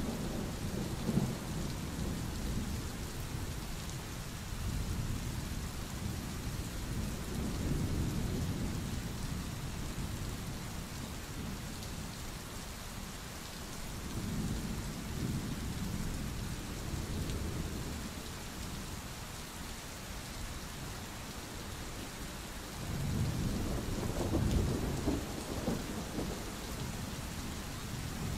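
Steady rain hissing, with low rolls of thunder that swell and fade four times.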